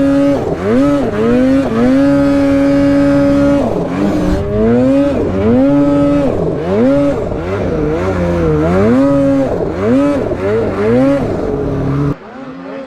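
Two-stroke snowmobile engine being ridden, its revs rising and falling over and over and held high for stretches of a second or two, then dropping off sharply near the end.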